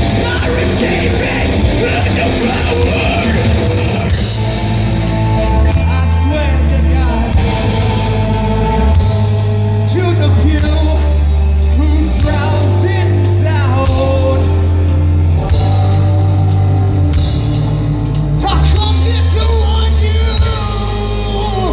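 A rock band playing live, loud and dense: heavy bass notes that shift pitch every second or two, pounding drums and cymbals, with a singer shouting and singing over it.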